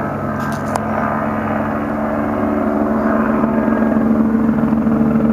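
Police helicopter running steadily, its engine and rotor sound getting gradually louder.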